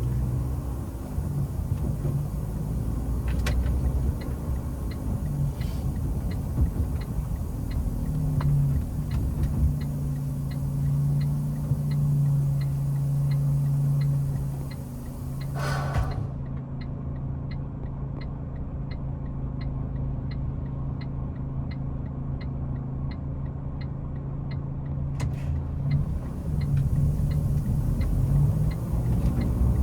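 Natural-gas truck engine running steadily as heard from the cab, with a regular light ticking about twice a second over it and a brief hiss about halfway through.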